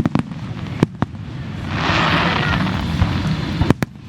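Fireworks display: sharp bangs of shells bursting, one at the start, one just before a second in and two in quick succession near the end. Between them a hissing crackle swells for about a second and a half, over a low steady rumble.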